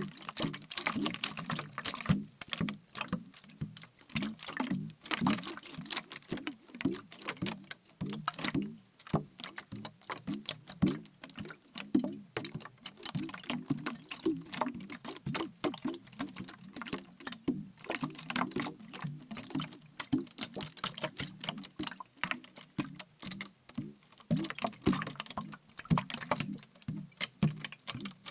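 Plastic bottle partly filled with liquid being shaken and tapped: liquid sloshing inside under a dense, uneven run of taps and clicks on the plastic.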